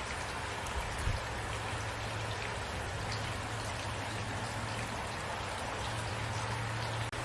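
Steady rain falling, an even hiss of drops with a few louder drop ticks about a second in, over a low steady hum. The sound cuts out for an instant near the end.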